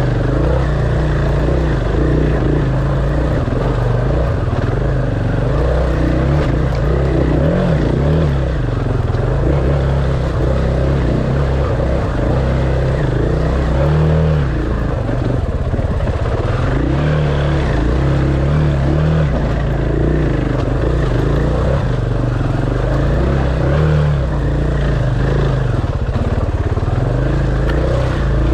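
Dirt bike engine running under way, its revs rising and falling continuously as the bike is ridden.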